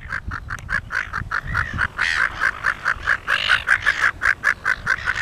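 Silver gull giving a fast, even series of short calls, about six a second, during mating, with a few louder, higher calls about two and three and a half seconds in.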